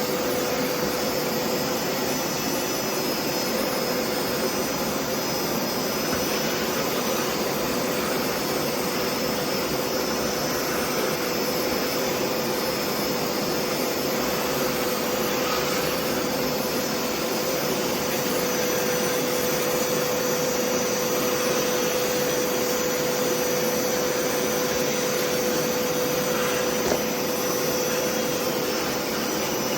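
Hoover PowerScrub Deluxe carpet cleaner's suction motor running steadily, a loud rushing hum with a steady whine, while its upholstery attachment is worked over a sofa. A small tick sounds near the end.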